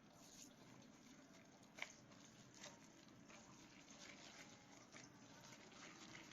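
Near silence: room tone with faint scattered small clicks and taps, one sharper tick a little under two seconds in.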